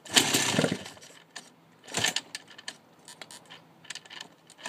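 Kickstarter of a freshly rebuilt 1998 Yamaha YZ250 two-stroke dirt bike kicked twice, about two seconds apart, the engine turning over briefly each time without catching.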